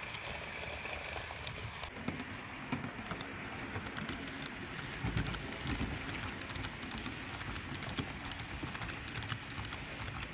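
Model train running on a layout track: a continuous patter of quick clicks from the wheels over rail joints and track, with a low motor hum underneath from about two seconds in.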